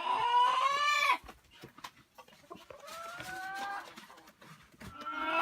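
Rooster crowing: a long drawn-out call that ends about a second in. A fainter, shorter chicken call follows near the middle, and more chicken calls start near the end.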